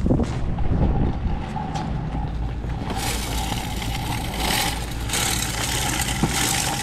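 A vehicle engine idling steadily, with a broad rushing hiss coming in about three seconds in.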